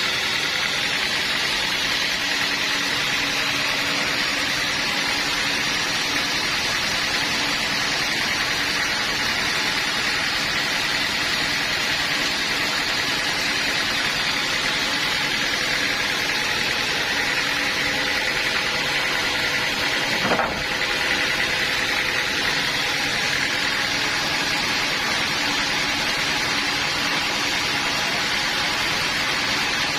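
Sawmill machinery running steadily with an even engine-like drone, with one brief sharp click about twenty seconds in.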